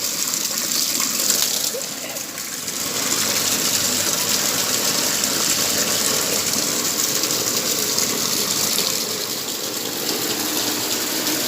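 Rainwater gushing steadily into a bucket as it fills, briefly quieter about two seconds in.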